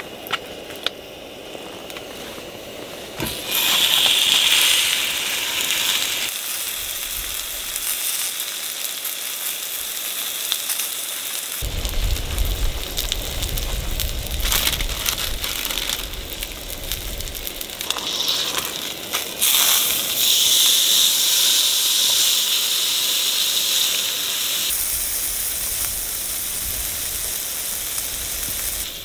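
Food sizzling and hissing in a hot pan, with crackling, heard in several short cuts. The sizzle is loudest about four seconds in and again from about two-thirds through, with a low rumble near the middle.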